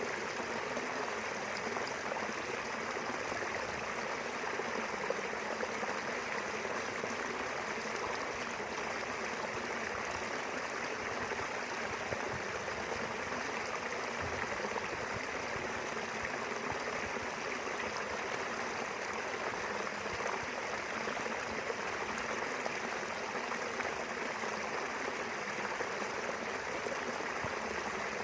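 A small river flowing steadily, its water rushing and gurgling with an even, unbroken sound.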